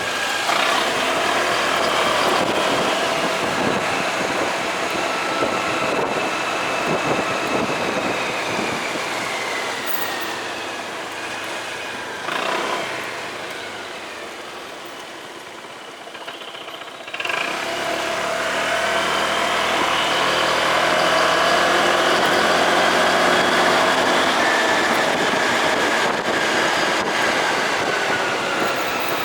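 Motorcycle engine running under way with wind rush, its note rising and falling with the throttle. It eases off and quietens a little after the middle, then picks up again sharply about two-thirds of the way through.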